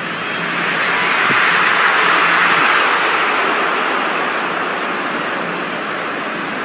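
Football stadium crowd din, a loud steady roar that swells about a second in and slowly eases off: the crowd's reaction to a goal just scored.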